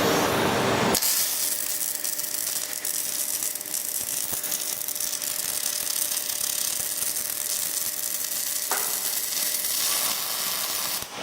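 Robotic welding arc, a steady high-pitched hiss with fine crackling that starts about a second in.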